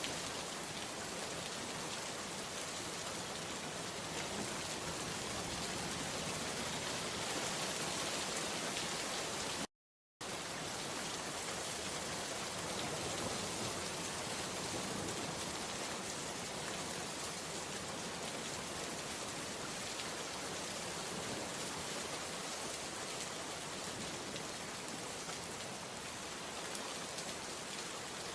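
Steady rain falling, an even hiss of drops. The sound cuts out completely for about half a second roughly a third of the way in, then resumes as before.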